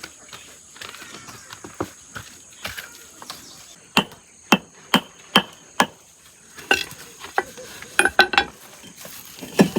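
A series of sharp hard knocks and taps, with a run of five evenly spaced ones about half a second apart in the middle and a quick cluster near the end.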